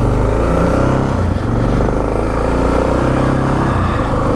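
Suzuki DR650SE's single-cylinder four-stroke engine picking up from a slow putt into steady running under way, its pitch stepping up and down as it pulls.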